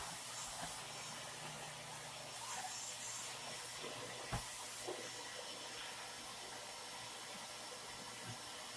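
Faint steady hiss with a low hum under it and a few soft clicks, the clearest about four and a half seconds in.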